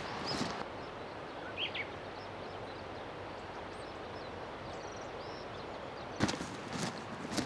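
Steady rush of river water with a few short bird chirps over it. Footsteps near the start and again from about six seconds in.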